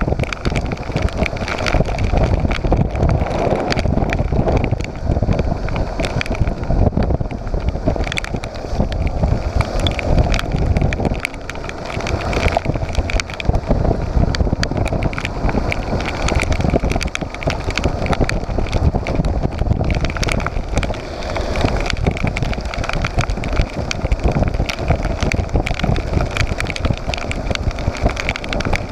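Motorcycle on the move: the engine runs under heavy wind buffeting on the microphone, with scattered sharp ticks throughout.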